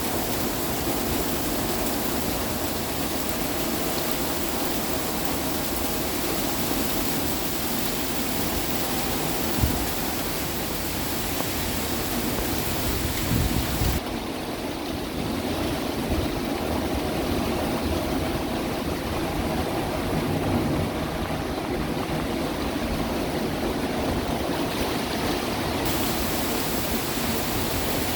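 Heavy rain falling steadily with wind, an even rushing hiss. It is broken by a single sharp knock about ten seconds in, and turns duller through the middle stretch.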